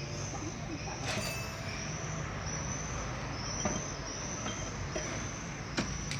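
Steady mechanical noise with a low hum and a high squeal that comes and goes, broken by a few sharp metallic knocks.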